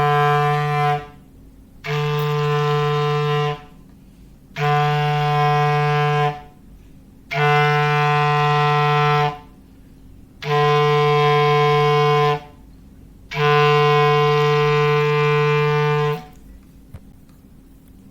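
Foghorn sound effect: a steady low horn note sounded in repeated blasts of about two seconds, one roughly every three seconds. The first blast ends about a second in, five more follow, and the last is held a little longer.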